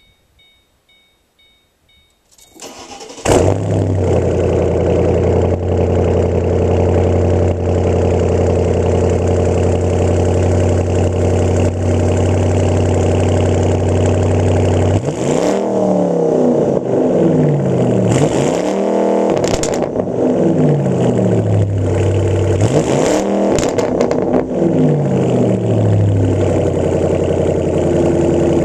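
A 2008 Ford Mustang GT's 4.6-litre V8 with the rear mufflers deleted: after a faint repeated chime, the starter cranks briefly and the engine catches about three seconds in, then idles with a deep, steady burble. From about halfway through it is revved several times, each rev rising and falling, before settling back to idle.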